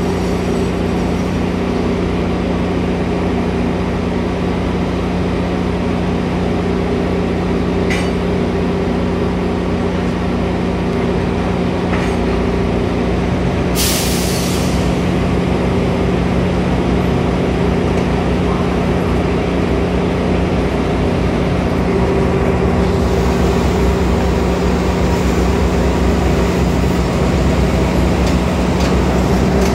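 Tank cars rolling slowly past on rail, over the steady low drone of an EMD GP38 switcher's diesel engine. A short, loud hiss breaks in about halfway through.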